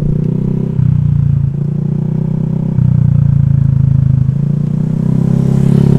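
Honda Vario scooter's single-cylinder engine running while riding, with its note rising and falling several times as the throttle is opened and eased.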